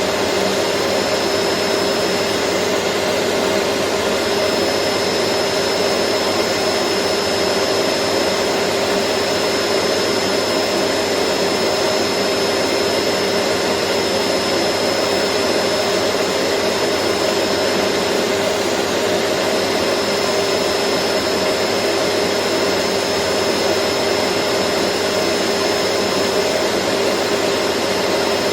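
Vacuum cleaner running steadily: a loud, even rushing of air with a constant motor hum and a faint high whine.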